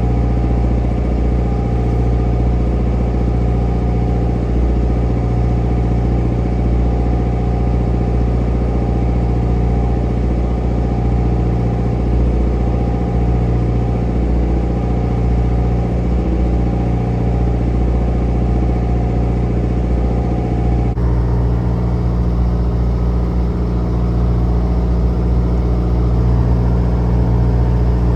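A fishing boat's engine running steadily with a deep, even hum. Its sound changes abruptly about 21 seconds in.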